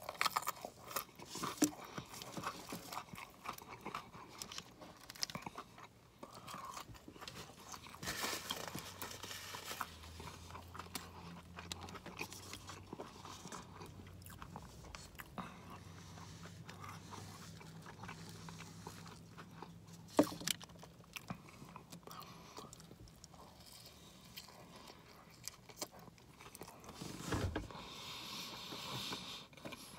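Close-miked, ASMR-style chewing and biting of a roast beef sandwich and crinkle-cut fries, with many small mouth clicks and crunches.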